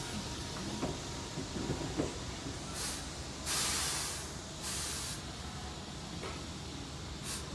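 Keihan 8000 series limited express electric train drawing to a stop at a platform: faint brake squeals as it slows, then several short, sharp hisses of compressed air once it has halted, the longest about three and a half seconds in.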